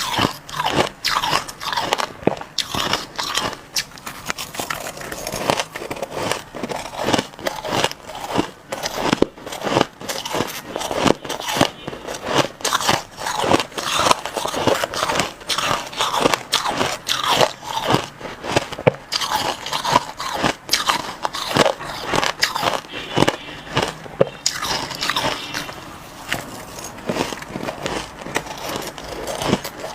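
Crushed ice being bitten and chewed close to the microphone: dense, crackly crunching, several bites and crunches a second.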